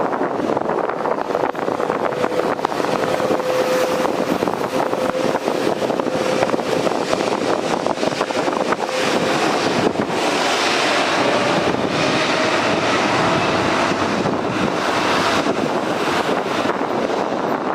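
Airliner jet engines running loud and steady, with a whine that rises slowly in pitch, and more high-pitched whine from about ten seconds in. Wind rumbles on the microphone.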